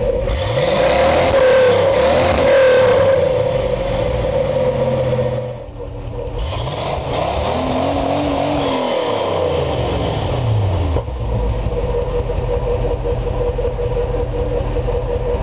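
Chevy 454 big-block V8 revving through dual 2¾-inch pipes with non-catted Thrush turbo mufflers. It goes up and back down twice, then settles into a steady idle about eleven seconds in.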